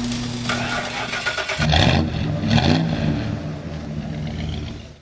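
Car engine starting, then revving in a low rumble that rises and falls in pitch, after a steady hum at the start; it fades out near the end.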